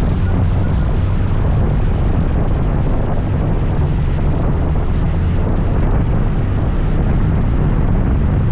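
Steady wind rush on the microphone over a scooter's engine running at a constant speed while riding, with a loud low rumble throughout.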